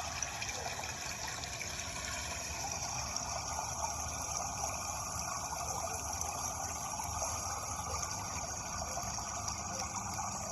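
Running water rushing steadily, an even, unbroken wash of noise.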